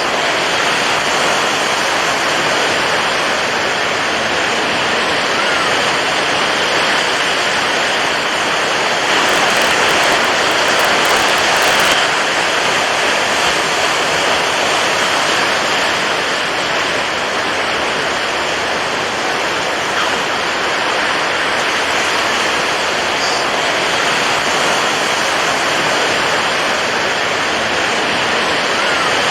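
Water rushing steadily in an unbroken wash, swelling a little for a few seconds about a third of the way in.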